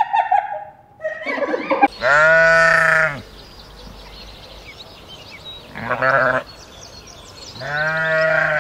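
A farm animal bleating: three pitched calls, the first and last long and drawn out, the middle one short, after shorter broken calls in the first two seconds.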